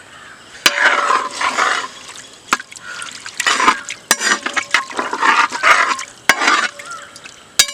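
A spoon stirring chicken pieces in a pot with a little water, several scraping, swishing strokes with sharp clinks of metal against the pot.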